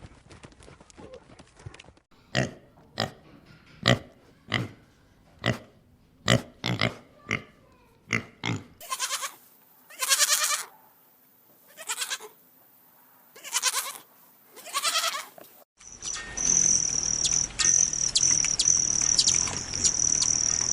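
A run of separate animal-call recordings: first about a dozen short, sharp calls roughly two a second, then five longer calls spaced a second or two apart, then a steady high-pitched chirring with quick pulses.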